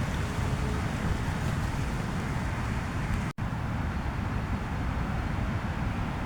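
Heavy rain and strong wind on a tent: a steady rushing noise with a low rumble of wind buffeting the microphone, broken by a split-second gap about halfway through.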